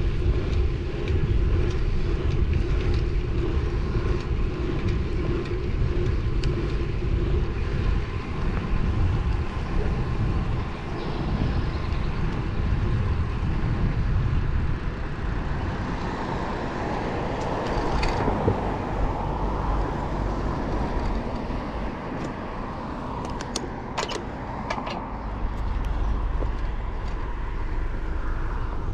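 Wind rushing and buffeting over a bike-mounted microphone with road-bike tyre noise while riding, and traffic swelling past about halfway through. A few sharp clicks near the end.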